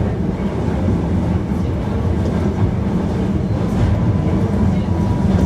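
Hankyu 1300 series electric train (Toshiba/Toyo IGBT inverter car) running between stations, heard from inside the car: a steady low rumble of wheels on rail. A faint steady tone joins about two-thirds of the way in.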